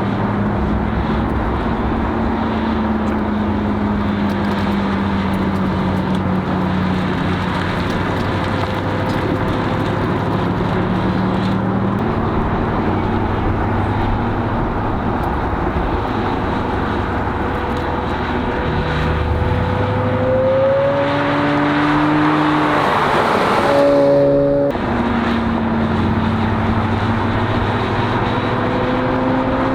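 C8 Corvette Z06's flat-plane-crank V8 with an AWE exhaust, driven on track. The engine note holds and slowly climbs for most of the stretch, rises to its loudest about three-quarters of the way through, then drops abruptly as with an upshift and climbs again.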